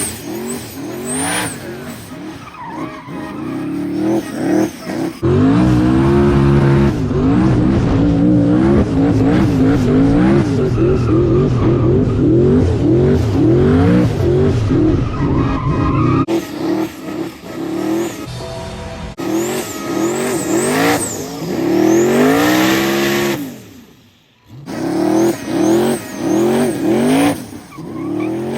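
A V8 race car engine revving hard, rising and falling over and over, with tires squealing and skidding as it does burnouts and doughnuts. The sound changes abruptly several times.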